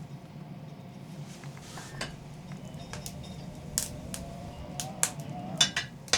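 Clinks and knocks of kitchen utensils and dishes being handled, a scattered series of sharp strikes that grows busier and louder near the end, over a steady low hum.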